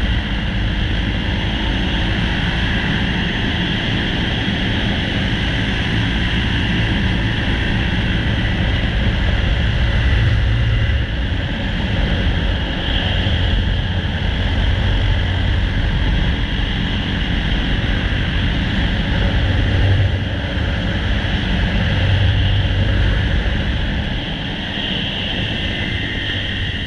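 Yamaha XT600 single-cylinder four-stroke engine running steadily under way, with wind rumble on the helmet-mounted camera's microphone; the engine eases off slightly near the end.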